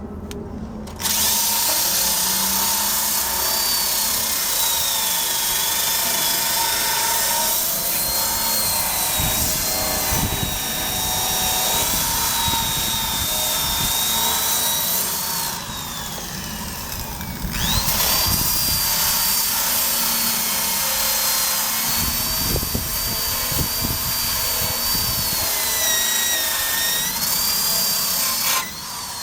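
Electric drill spinning a wire brush against the Honda Cub's steel frame, scrubbing off rust; the motor's whine wavers with the load. About halfway it stops and winds down with a falling whine, then starts again about two seconds later and runs until shortly before the end.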